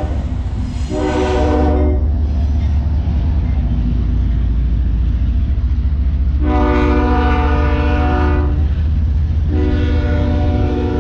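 CSX freight train passing with a steady low rumble of locomotives and railcars, while the locomotive's air horn sounds a chord three times: a short blast about a second in, a long one around six and a half seconds in, and another long one near the end.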